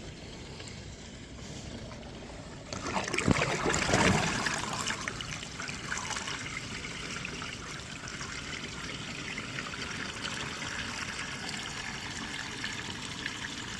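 Water splashing and trickling in a rain gutter. A burst of louder splashing starts about three seconds in, then it settles to a steady trickle.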